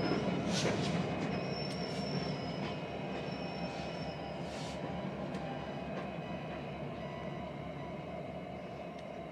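Slow-moving freight train: diesel locomotives rumbling steadily while the wheels give a thin, on-and-off squeal and a few clicks over the rail joints in the first half. The sound fades as the train moves away.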